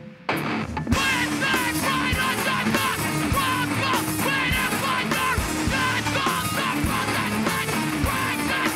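Live hardcore punk band playing at full volume, with drums, distorted guitars and shouted vocals. The music drops out for a moment at the very start, then the whole band crashes back in under a second later.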